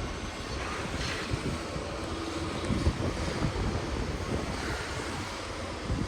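A Sydney Trains Waratah electric train running into the station, a steady low rumble and rush of noise, with wind buffeting the microphone.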